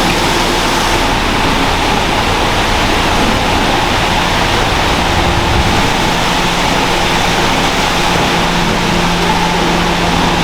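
Steady loud din of food-factory machinery: a constant rushing hiss with a few steady hums running under it, unbroken throughout.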